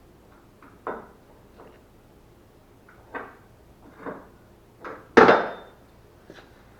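A handful of separate knocks and clunks from objects being handled, spaced irregularly. The loudest and longest comes a little after five seconds and rings on briefly.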